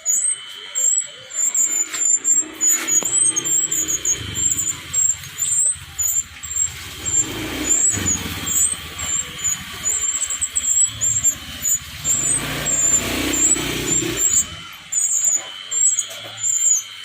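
A small bird giving short, high squeaky chirps several times a second, while a motor vehicle passes with a low rumble from about four seconds in until near the end, swelling twice.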